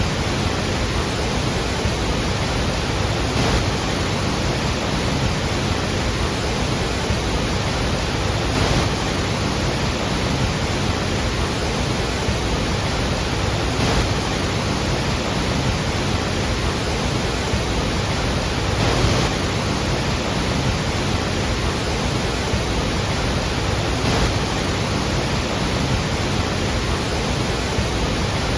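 Iguazú Falls: a mass of water plunging and crashing, a loud, steady rush with slight swells every few seconds.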